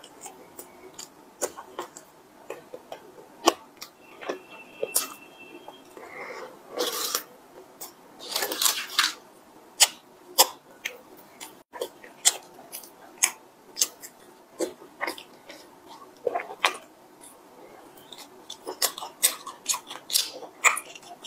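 Close-miked eating of a cream puff: irregular wet mouth smacks, clicks and chewing, with a longer stretch of denser rustling noise about eight seconds in.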